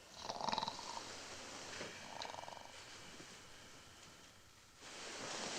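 A person snoring: two rasping, rattling breaths about two seconds apart.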